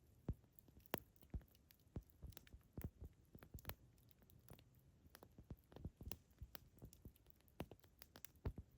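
Campfire crackling, with irregular sharp pops and snaps, several a second at times, over a faint low background.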